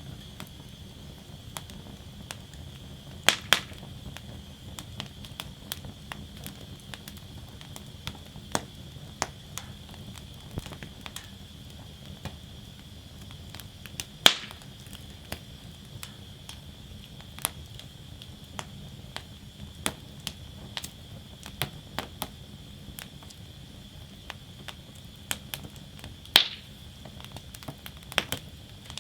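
Wood fire burning in a fire basket, crackling with many scattered small snaps and a few louder pops over a steady hiss.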